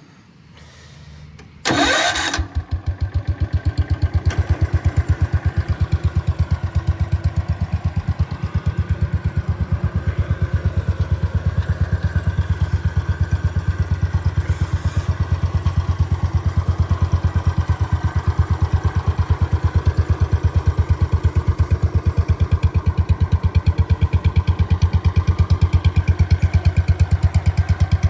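Wheel Horse C-100 garden tractor's single-cylinder engine starting after a brief crank about two seconds in, then running steadily with an even, rapid firing beat.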